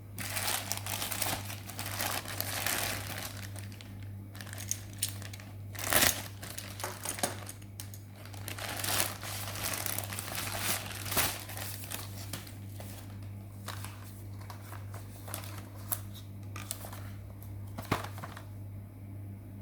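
Packaging being unwrapped and crinkled by hand, irregular crackling with sharp snaps now and then, the loudest about six seconds in and another near the end, over a steady low hum.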